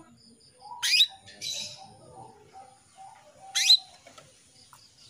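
Female domestic canary giving short, sharp up-sweeping call notes, twice, about two and a half seconds apart, with a brief scratchy note after the first. These are the calls of a hen in breeding condition calling to a male.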